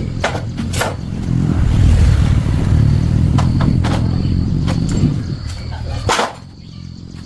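Motorcycle engine running. Its low rumble swells about a second and a half in and drops away sharply about six seconds in, with scattered clicks and knocks over it.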